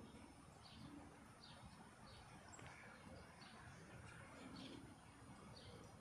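Faint bird chirps, short and repeated about twice a second, over a low steady background rumble.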